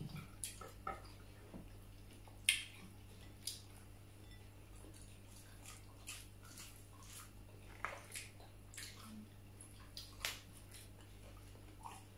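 Quiet eating sounds: people chewing vegetables, with scattered short wet mouth clicks and light crunches, over a steady low hum.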